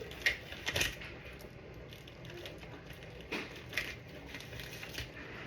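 Scattered clicks and knocks of kitchen handling, with pairs of sharp taps about a second in and again past three seconds.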